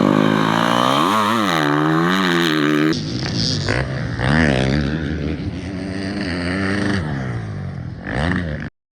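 Dirt bike engines revving during racing, pitch climbing and dropping with the throttle. The sound cuts to another bike about three seconds in and stops abruptly near the end.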